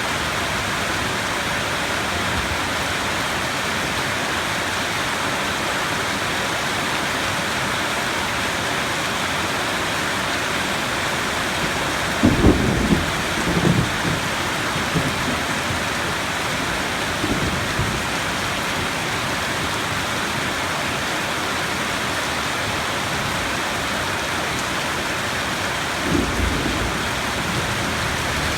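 Steady heavy rain falling, with rolls of thunder rumbling about halfway through and a shorter rumble near the end.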